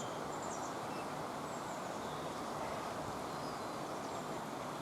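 Steady outdoor background noise with a few faint, high bird chirps.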